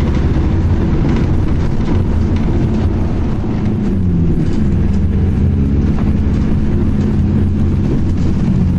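A vehicle engine running: a steady low rumble with a humming tone that dips slightly in pitch about four seconds in and again near the end.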